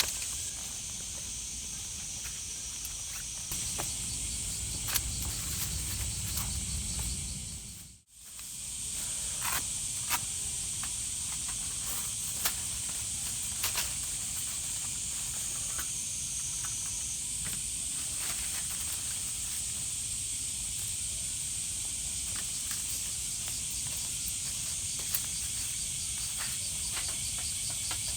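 Forest ambience with a steady high-pitched drone of insects and scattered small clicks and ticks. About eight seconds in it dips to silence and comes back.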